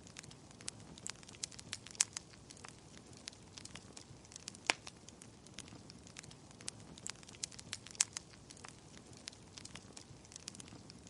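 Wood fire in a fireplace crackling, with irregular sharp pops over a steady low rumble and hiss. A few louder pops come about two, five and eight seconds in.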